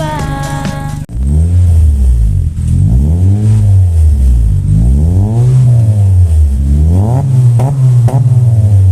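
Music for about the first second, then a Honda City hatchback's engine through an ORD full-system aftermarket exhaust, revved up and down several times with a deep, bassy exhaust note.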